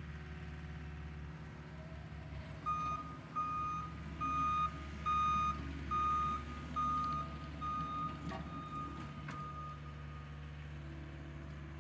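Diesel equipment running a power rake, engine running steadily, with its backup alarm beeping about nine times at a steady pace as it reverses, the last beeps fading.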